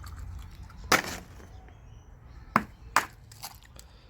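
Four sharp knocks or clacks, spaced irregularly, the first and the two around the three-second mark the loudest, over a low steady hum.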